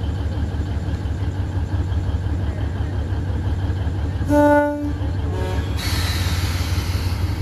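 Diesel locomotive of the Alishan Forest Railway running with a steady low engine rumble, sounding one short horn blast about four seconds in and a fainter second toot right after it, followed by a steady hiss.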